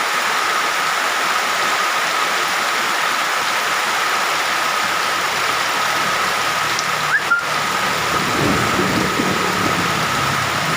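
Rain falling steadily, an even hiss, with a thin steady tone running under it; a low hum joins about eight seconds in.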